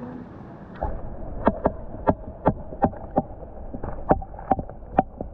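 A run of sharp knocks, about two to three a second, starting about a second in, over a steady rushing noise.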